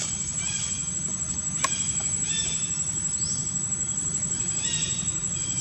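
Outdoor ambience: a steady low rumble under a steady high insect whine, with scattered short high-pitched animal chirps and a sharp click about a second and a half in.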